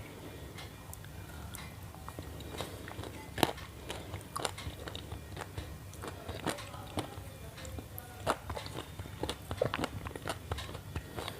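Irregular clicks and crunches, one sharper than the rest about three seconds in, over a low steady hum.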